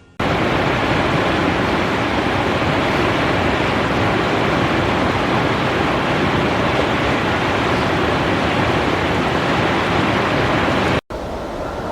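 Hailstorm sounding as a steady, dense roar of hail and rain coming down hard. It cuts off abruptly about eleven seconds in and resumes somewhat quieter.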